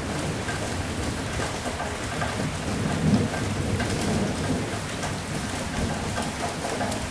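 Steady rain falling, with a low rumble of thunder that swells and peaks about three seconds in, then fades back under the rain.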